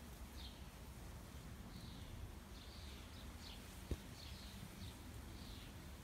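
Faint bird chirping: short high chirps about once a second over a low background rumble, with a single soft knock about four seconds in.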